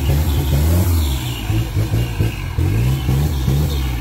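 Off-road 4x4's engine revving hard in repeated short bursts, the pitch climbing with each burst.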